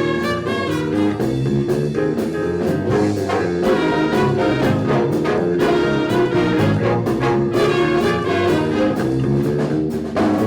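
School band playing, with trombones and trumpets carrying the tune over a steady drum beat.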